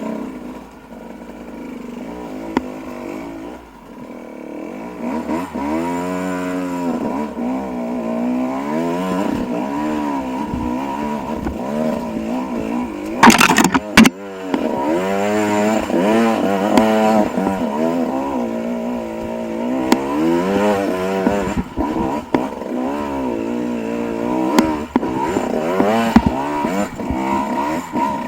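Dirt bike engine being ridden, its revs rising and falling repeatedly as the rider works the throttle. There are two loud knocks about halfway through.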